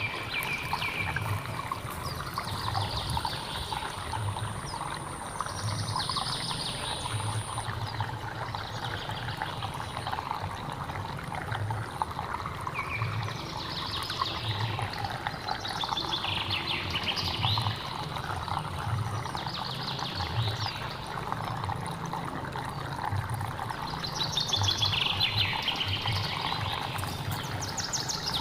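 Running water of a hill stream, a steady rush, with birds calling over it every few seconds and a thin high steady tone during the first several seconds.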